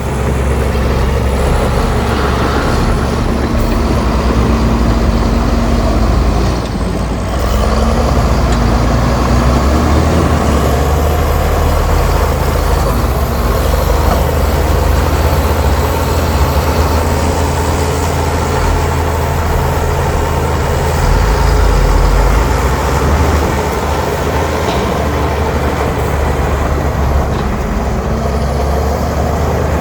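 Heavy diesel earthmoving machinery running steadily, a low engine drone that changes pitch a few times, with a brief dip about seven seconds in.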